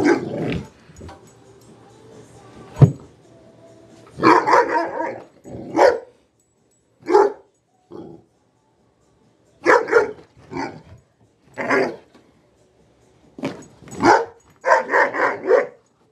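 A dog barking at a vacuum cleaner in short bursts and quick clusters of barks, with pauses between them. There is one sharp knock a little under three seconds in.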